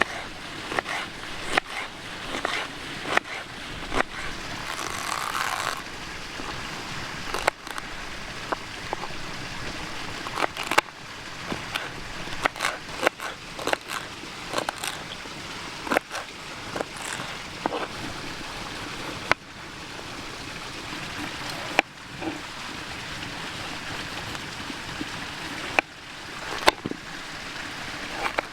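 A small creek running steadily, with many sharp, irregular clicks and knocks over it, at times several in quick succession.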